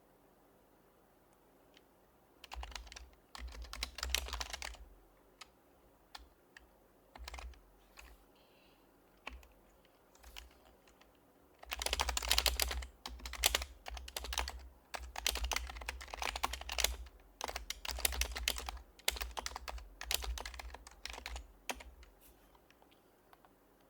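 Typing on an HHKB Professional HYBRID Type-S keyboard with silenced Topre switches: a short burst of keystrokes, a few scattered single keys, then a long run of fast typing from about halfway through that stops shortly before the end.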